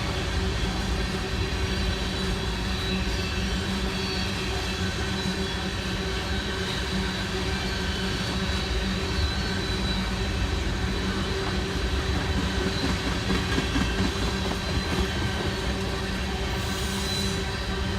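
Norfolk Southern train's cars rolling past in a steady rumble, with a thin, steady squeal from the wheels on the rails. A brief hiss comes in near the end.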